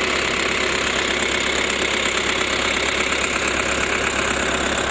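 An engine running steadily, a continuous mechanical noise with no change in speed.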